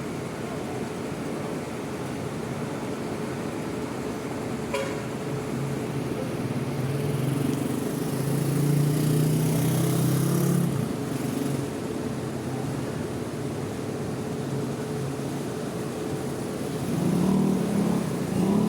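Diesel bus engines running in a bus terminal over a steady background noise. One engine grows louder between about seven and eleven seconds with a short hiss that cuts off, and another engine swells near the end.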